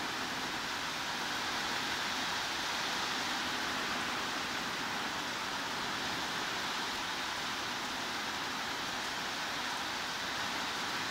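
Steady, even rain noise: heavy rain falling as a constant hiss, with no drips or distinct drops standing out.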